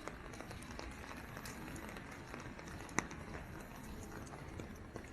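Footsteps of a person walking on wet pavement in drizzle, with a low rumble of wind on the microphone and one sharp tap about three seconds in.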